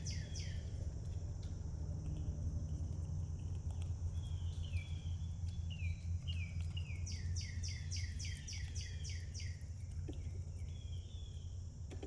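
A songbird singing a rapid trill of repeated down-slurred notes, about five a second for some two and a half seconds, with a few single slurred notes before it. Underneath, a steady high insect drone and a steady low rumble.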